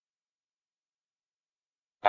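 Silence: the audio track is digitally muted, with no sound at all.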